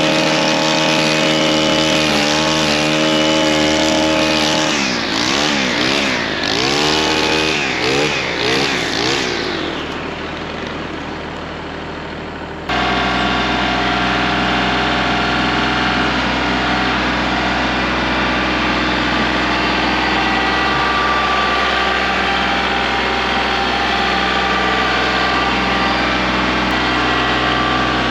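Kubota L3901 compact tractor's three-cylinder diesel engine running, its speed dipping and recovering several times, as happens when the box blade takes load. About 13 seconds in the sound changes abruptly and the engine goes on running steadily.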